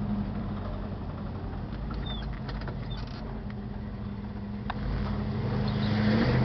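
A 1967 Dodge Dart's 383 stroker V8 engine pulling under way, its note fairly steady, then louder over the last second and a half. Near the end the pitch drops sharply as its three-speed racing automatic shifts up.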